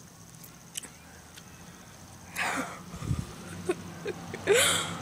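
Two short, breathy, wheezing exhalations from a person, about two and a half and four and a half seconds in, with a low thump between them.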